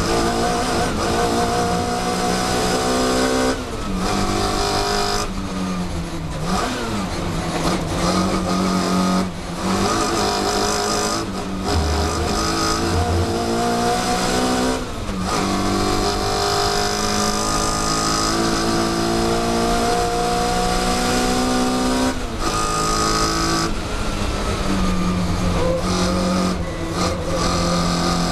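Mini Cooper S race car's four-cylinder engine heard from inside the cabin, pulling hard at high revs. The pitch climbs steadily through each gear and drops sharply at each gear change or lift, about eight times.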